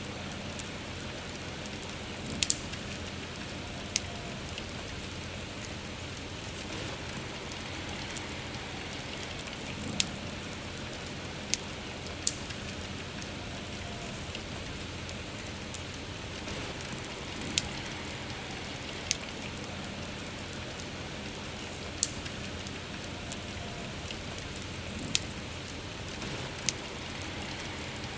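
Steady hiss of soft rain, with irregular sharp pops and crackles from a wood campfire every second or few.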